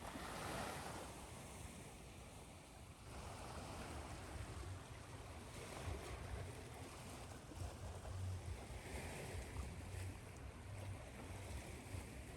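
Ocean waves washing on a shore, swelling and easing every few seconds, blended with a steady hiss of white noise.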